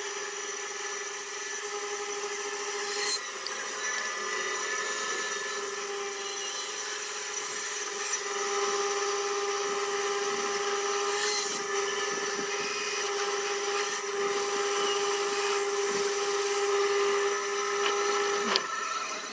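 Small high-speed rotary carving tool, like a dental-drill-type micromotor, running with a steady high whine as its burr grinds into torreya wood; it stops shortly before the end.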